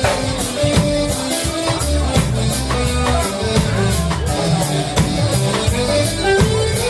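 Live reggae band playing an instrumental passage without vocals: a drum kit keeping a steady beat under a bass line and held keyboard or guitar notes.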